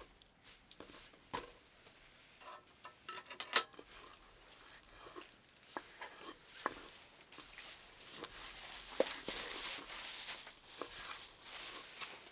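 Camp cooking sounds: scattered light clicks and knocks of utensils, then from about seven seconds in a steady crackling hiss with small pops.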